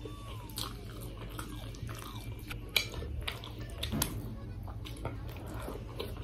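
Close-up eating sounds of someone chewing a mouthful of rice and chicken, with scattered sharp mouth clicks, over a steady low hum.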